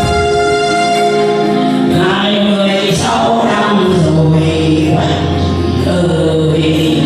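Vietnamese song with instrumental accompaniment. Held instrumental notes open it, and a singing voice comes in about two seconds in and carries the melody over the backing.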